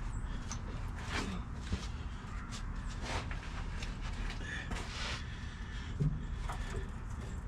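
Scattered light knocks and scrapes of a metal fuel tank strap being handled and pushed up toward its mount, over a steady low rumble.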